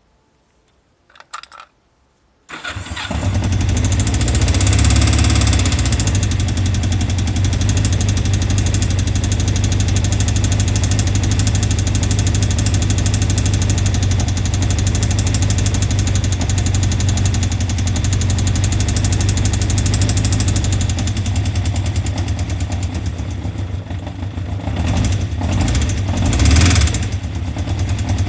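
Imported vehicle's engine cranking and catching about two and a half seconds in, after a short sound just before. It then runs steadily at idle, with a brief rise in revs near the end. The idle carries the abnormal engine noise the owner is showing.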